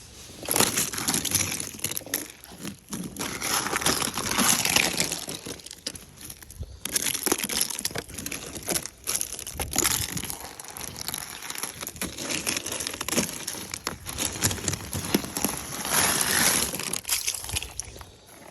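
Ice being scraped and broken off a truck: a rough, crunching scrape in irregular strokes, full of sharp cracks and clicks.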